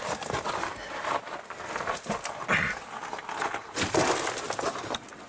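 Panting breaths close to the microphone, irregular and noisy, with a couple of louder breaths in the middle.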